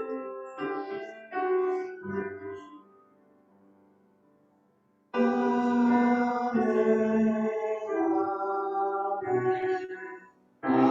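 Piano chords ringing out and fading to near silence, then music with sustained piano or keyboard chords starts abruptly about five seconds in, with a brief break near the end.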